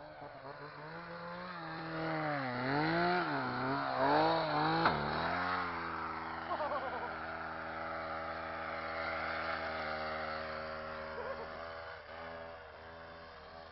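Homelite two-stroke chainsaw engine running just after the choke is switched off, its speed rising and falling unevenly. A sharp crack about five seconds in, after which the engine runs at a steadier speed and slowly fades.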